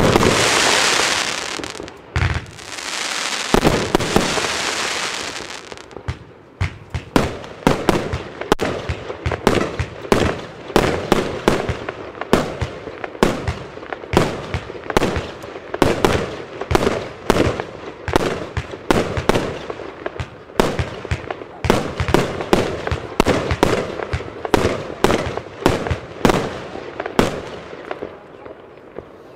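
Evolution Fireworks Acatenango compound firework cake firing. First comes a dense hiss with a couple of thuds for about six seconds. Then follows a long rapid run of sharp shots and bursts, about two a second, which stops shortly before the end.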